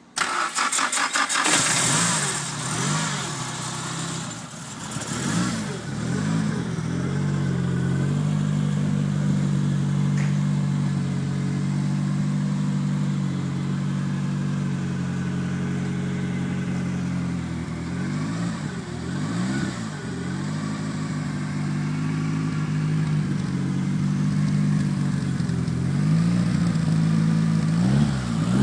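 Turbocharged Nissan SR20DET four-cylinder engine in a 1973 Toyota KE20 Corolla starting through a new 2½-inch stainless steel mandrel-bent exhaust. It cranks for about a second, catches and revs up and down for several seconds, then settles into a steady idle, with a couple of brief revs near the end.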